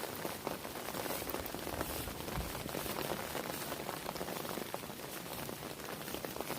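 Heavy rain falling, a steady dense hiss of raindrops pattering on surfaces with many small drop ticks.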